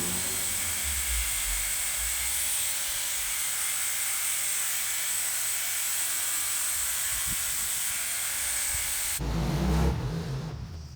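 Small high-speed electric motor running steadily with a high whine and hiss. About nine seconds in it gives way to a louder, rougher noise with a low rumble.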